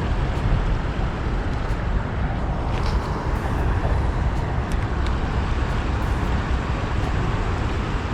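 Wind buffeting the microphone: a steady, loud low rumble with a hiss above it, with a few faint ticks.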